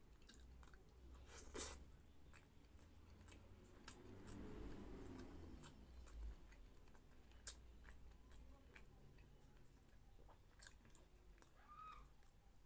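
Faint close-up chewing and mouth sounds of a person eating soft rice and pork menudo by hand, with scattered small clicks and a stronger click about one and a half seconds in.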